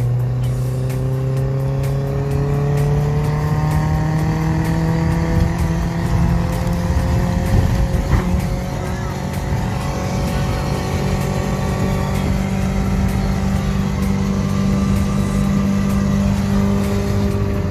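A VW bus driving under the power of its Toyota 3SZ 1.5-litre four-cylinder engine, its pitch rising slowly as the van gains speed.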